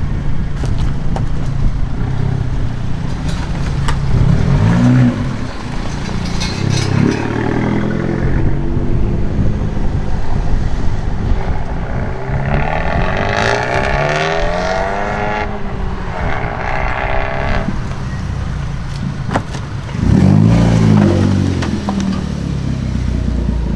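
Modified cars accelerating away one after another, their engines revving with pitch rising and falling as each drives past. A few short sharp cracks are heard among the revs.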